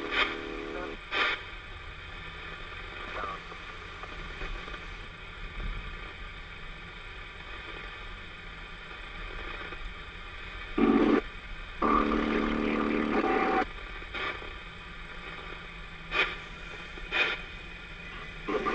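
CB radio receiving, a steady static hiss broken by a few sharp crackles of lightning static. Two short louder bursts of garbled transmission come about eleven and twelve seconds in.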